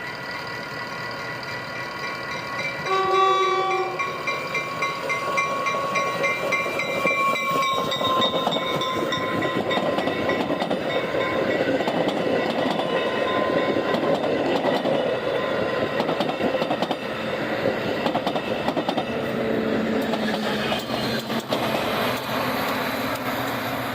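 A train sounds its horn, with a loud blast about three seconds in, then passes close by with a steady rumble and clatter of wheels on the rails.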